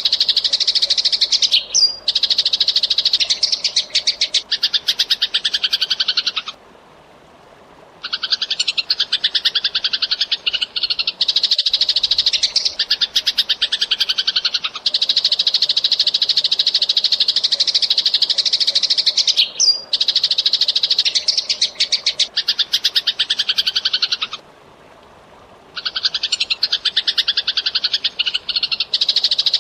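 Eurasian tree sparrow chattering in very fast, dense runs of high chirps, broken twice by pauses of about a second and a half.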